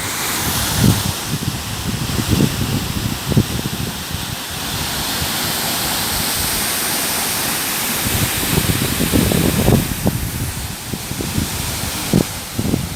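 Waterfall rushing as a steady loud hiss, with wind buffeting the microphone in low rumbling gusts during the first few seconds and again in the last five.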